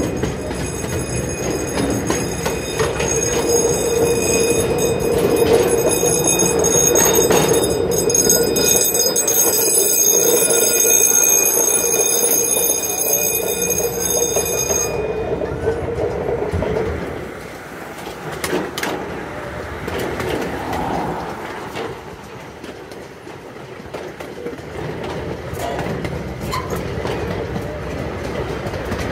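Miniature park train rolling along its track, heard from aboard: a steady rumble with high-pitched wheel squeal ringing over it for about the first half. It then settles to quieter running with scattered clicks from the track.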